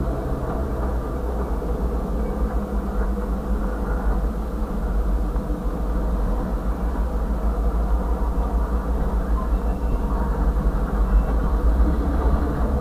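Freight train of the Massachusetts Central Railroad rolling past, a steady rumble of hopper cars and boxcars on the rails, heard from inside a car.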